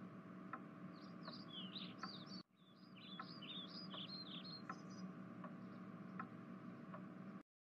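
Faint ambience of small birds chirping in quick, rising and falling calls over a low steady hum with scattered soft ticks. It drops out for a moment about two and a half seconds in and cuts to silence near the end.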